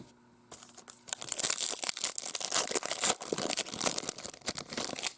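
Crinkling and tearing of a foil baseball-card pack wrapper being ripped open, a dense crackle of small clicks that starts about half a second in and stops just before the end.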